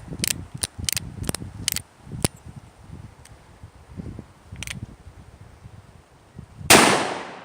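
Ruger Old Army .45 cap-and-ball revolver: a quick run of sharp clicks and snaps in the first two seconds, then near the end one loud shot that dies away briefly.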